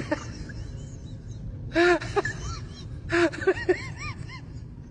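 A pet's short squeaky calls, each rising and falling in pitch, coming in two quick clusters of several calls.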